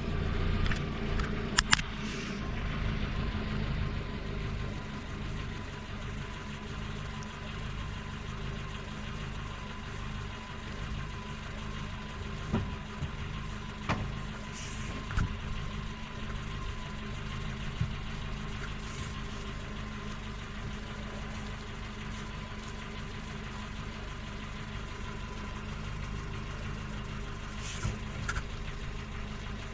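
Holts Tyreweld aerosol canister still discharging sealant and gas into a punctured car tyre: a steady hiss over a low steady hum, with a few short clicks partway through.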